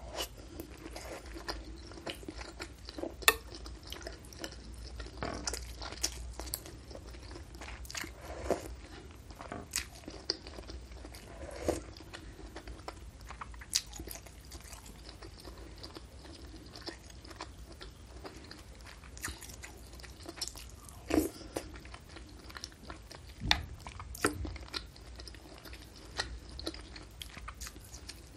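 Close-up ASMR eating sounds: chewing and biting of beef meatball soup with noodles and fried tofu. The chewing is broken by scattered sharp clicks and crunchy bites, the loudest about three seconds in and twice more in the last third.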